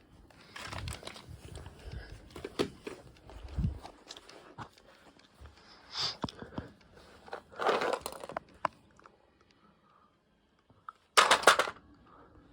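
Irregular rustling, crinkling and small knocks of things being handled, with a loud crinkling burst near the end.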